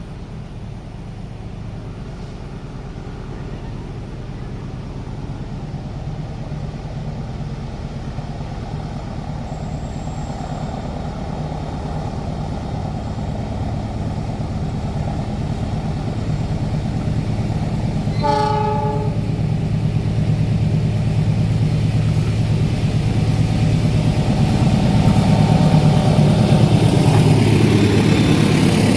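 An approaching train, its locomotive's steady low engine hum growing louder as it nears. About two-thirds of the way through it gives one short horn blast.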